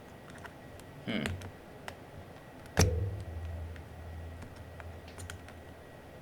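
Small plastic clicks and rattles from a keycap puller being worked under the keycaps of a mechanical keyboard, with one loud sharp click and a dull thud about three seconds in as a keycap pops off or the board is knocked.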